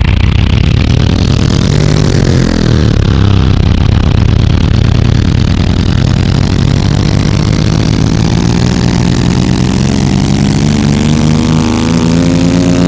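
Monster truck engine running loud and rough with a deep rumble, revving higher near the end.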